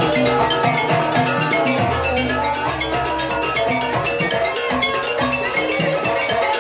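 Banyuwangi jaranan gamelan music: struck metal-bar instruments playing quick, dense runs of notes over drums and a low sustained bass.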